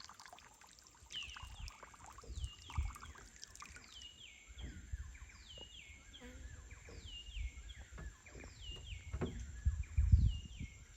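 A bird calling over and over: a series of falling whistled notes, about one a second, with low rumbles and thumps underneath.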